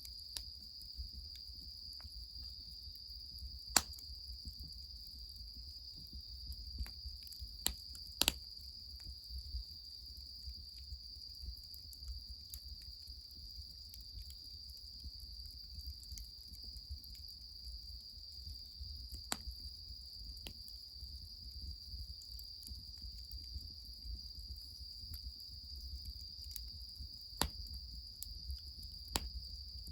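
A steady, high-pitched chorus of crickets, with a few sharp snaps from the crackling wood fire: one about four seconds in, a pair around eight seconds, and more near the end.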